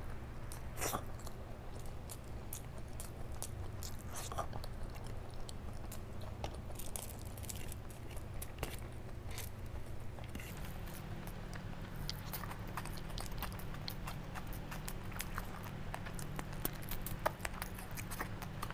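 Close-miked chewing and wet mouth clicks of someone eating mouthfuls of rice and curry by hand, with many small clicks that grow denser in the second half, over a steady low hum.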